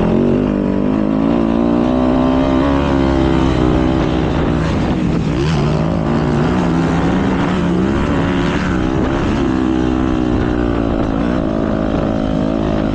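Several motocross bike engines racing, revving up and down with overlapping rising and falling engine notes.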